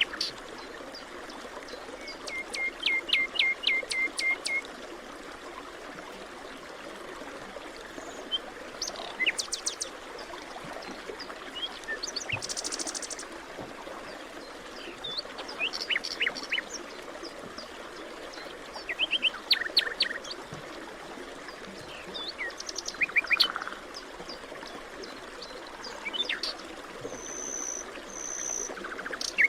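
Songbirds chirping and trilling in a forest, with short calls and rapid trills every few seconds, some high and thin, some lower. A steady rushing hiss runs underneath.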